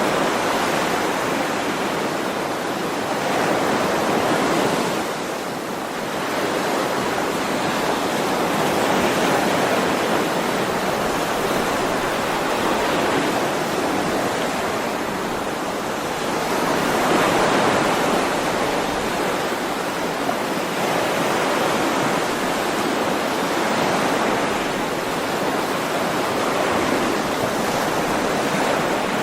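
Ocean waves breaking and washing on a shore, a continuous rush of surf that swells and eases every several seconds.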